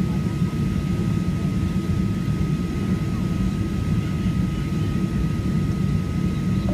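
Steady cabin noise inside a Boeing 737-800: an even low rumble from its CFM56-7B engines and airflow, with a thin steady high tone above it.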